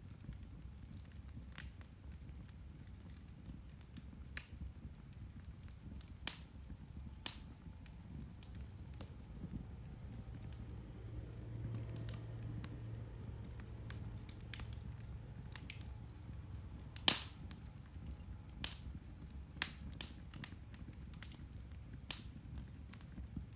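Irish turf (peat) fire burning, with scattered sharp crackles and pops over a low rumble; one pop about two-thirds of the way through is much louder than the rest.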